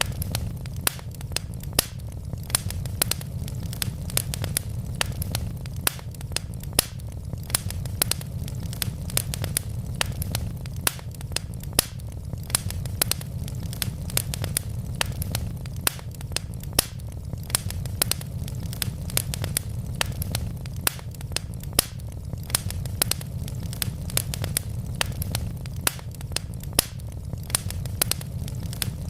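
Wood logs burning in a fireplace: steady crackling with frequent sharp pops and snaps, several a second, over a low rumble of the flames.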